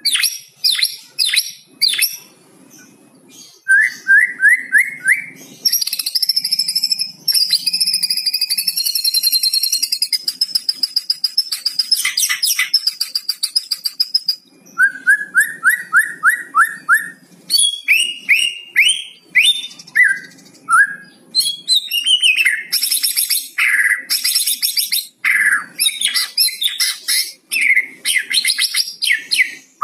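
White-rumped shama singing a varied song. Runs of quick repeated whistled notes alternate with a long, fast crackling rattle (kretekan) that runs from about a fifth of the way in to roughly halfway.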